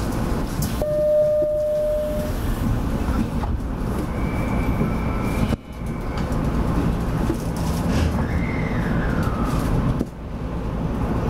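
Steady low rumble and hum in the cab of a Nishitetsu 9000 series electric train standing still. A short steady beep comes about a second in, a higher steady tone around four to six seconds, and a falling tone near eight seconds. The sound dips briefly twice.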